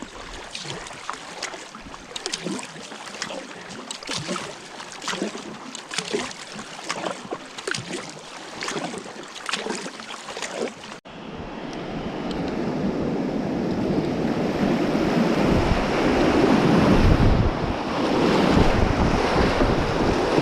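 Water splashing in quick irregular strikes, as of kayak paddle strokes on a river. After an abrupt cut about halfway through, a steady rush of whitewater rapids with wind on the microphone, building louder.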